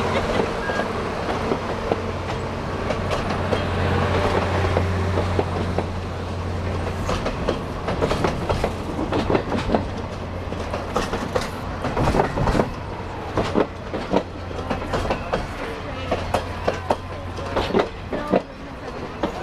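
Canadian Pacific Holiday Train cars rolling past as the train departs, over a steady low hum. From about a third of the way in, the wheels clack sharply and ever more often over the rail joints.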